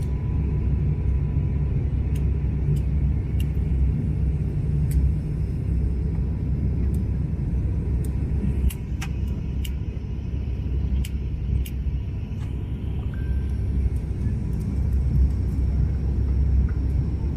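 Steady low rumble of engines and rushing air inside an airliner cabin as the plane descends.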